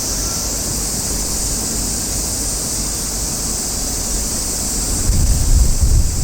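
Outdoor wind noise on the microphone over a steady high hiss, with a gust of low buffeting about five seconds in.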